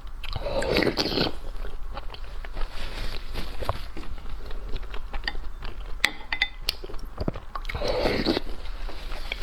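A person biting and chewing food close to the microphone, with crunching and many small sharp clicks; two louder, longer crunching or slurping stretches come about a second in and near the end.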